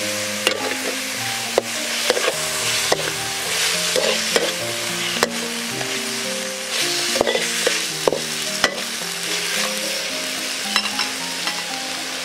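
Chopped meat sizzling as it stir-fries in a steel wok, with a metal ladle scraping and clinking against the pan again and again.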